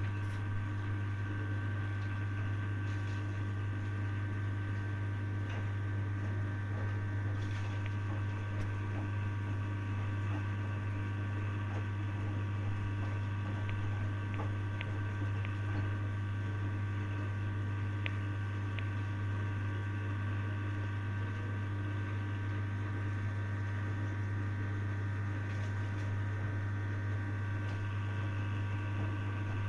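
Hoover DYN 8146 washing machine running with a loud, steady, unchanging low hum and a few faint ticks.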